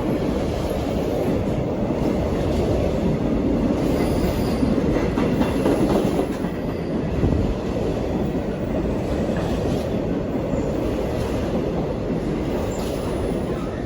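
Train running through a station at speed without stopping: a steady, loud rumble of wheels on rail.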